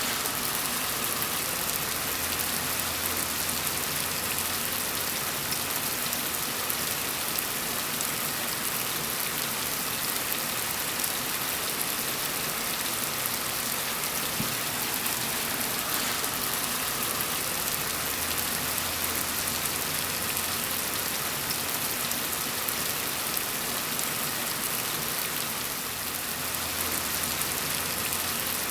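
Steady rain falling, a dense even patter of drops on a surface with a low rumble underneath.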